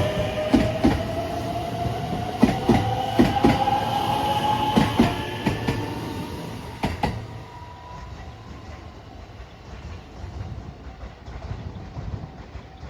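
Electric train pulling away: its motor whine rises slowly in pitch as it accelerates, and the wheels clack over rail joints. The clacking stops about seven seconds in and the sound fades as the train moves off.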